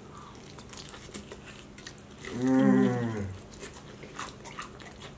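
Close-up eating sounds: fried chicken being bitten and chewed, with small crunchy clicks from the breading. About two seconds in, a low, drawn-out 'mmm' hum of enjoyment lasts about a second.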